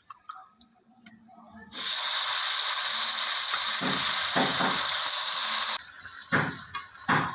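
Marinated chicken hitting hot oil and ghee in a kadai and sizzling: a sudden loud hiss starts about two seconds in, then eases to a quieter sizzle about four seconds later.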